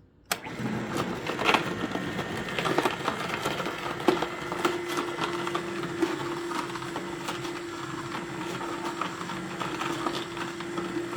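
Nama J2 slow masticating juicer switched on about a third of a second in, its motor running as the auger crushes carrots, with frequent cracks and pops. A steady hum sets in about four seconds in.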